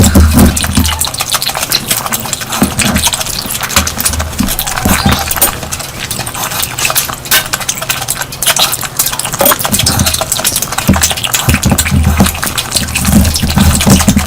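Close-miked eating of curry: wet chewing, smacking and squelching, a dense run of small clicks with short low thumps.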